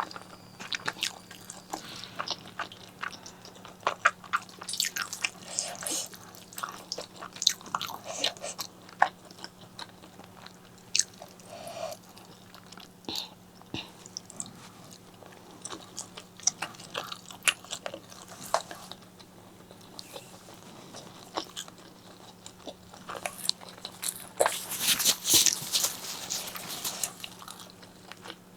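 Close-miked mouth sounds of eating spicy pork leg curry with eggplant and rice: biting, chewing and crunching, with many sharp wet clicks. There is a busier, louder run of bites and chewing near the end.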